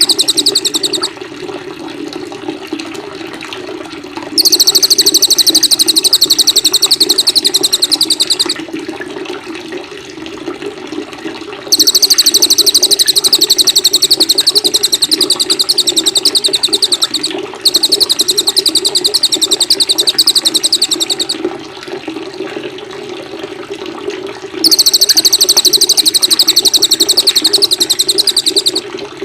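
Recorded cage-songbird song used as a training master: long, very rapid high trills of about four seconds each, separated by short pauses, over a steady sound of running water.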